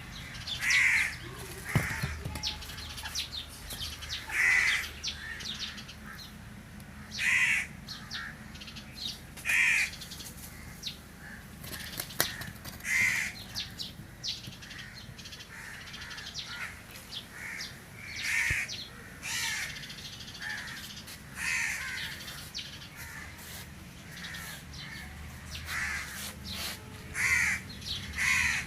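Crows cawing, a short call every two to three seconds, with a couple of sharp clicks in between.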